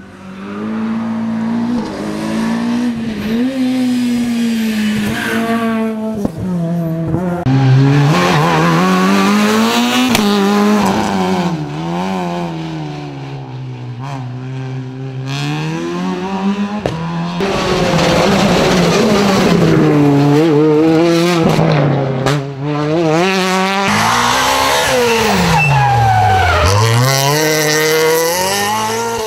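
Rally cars driven hard on a stage, engines revving up and falling back through gear changes and braking, with tyres squealing. The sound cuts abruptly between several passes.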